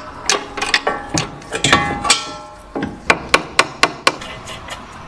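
Hammer blows on metal, about a dozen sharp strikes in quick runs, a few ringing on briefly: the wheel hub flange being driven into a newly fitted front wheel bearing.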